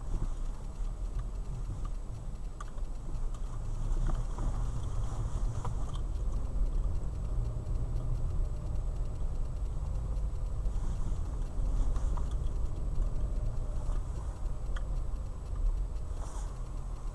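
Nissan Qashqai driving, with a steady low rumble and irregular sharp knocks every second or two. The knocks are what the owner takes for a knock in the front suspension.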